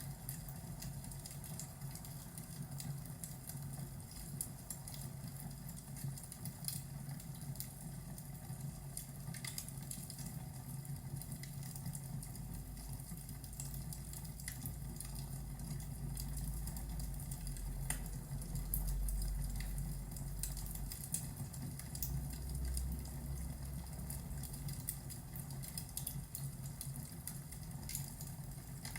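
Fireplace ambience crackling with the patter of a thunderstorm's rain, and a low roll of thunder that swells near the middle and rumbles again briefly afterwards.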